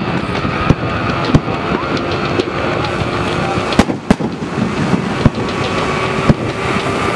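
Fireworks shells bursting: sharp bangs at irregular intervals, roughly one a second, over a steady dense background din.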